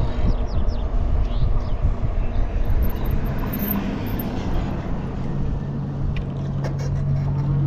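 Wind buffeting the microphone on a moving bicycle, a rough, uneven rumble. About five seconds in, a steady low engine hum joins it.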